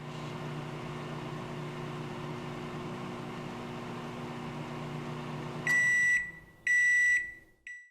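Microwave oven running with a steady hum, then stopping about three-quarters of the way in and beeping twice, with a third beep cut short at the end: the end-of-cycle signal.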